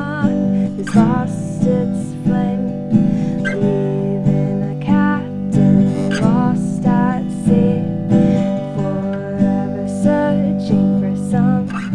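A woman singing an original song, accompanying herself by strumming a 1969 Ovation acoustic guitar. The voice holds wavering notes over steady strummed chords.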